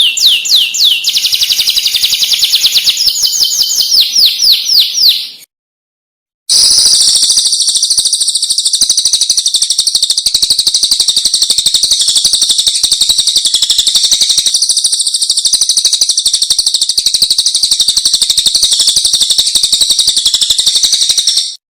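Recorded songbird song from a bird-training track: a rapid series of high, quickly falling notes, then, after a second's break, a long, very fast, high trill held evenly until it cuts off abruptly.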